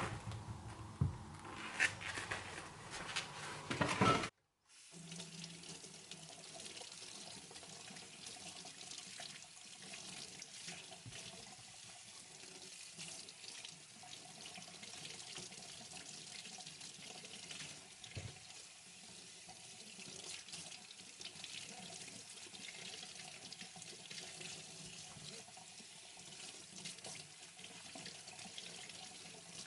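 Kitchen tap running steadily into a sink. It starts about five seconds in, after a few seconds of knocks and clatter and a brief cut.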